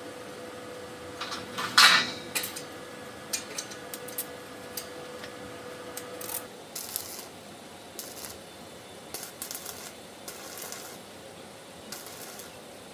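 Light metal clinks and clatter, as of small metal parts or tools being handled and set down, the loudest about two seconds in. A steady hum runs under them and stops about six seconds in.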